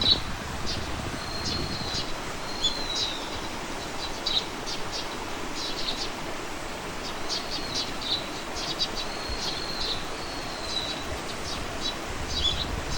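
Small birds calling: repeated short high chirps and thin whistled notes, some gliding slightly, over a steady outdoor background hiss.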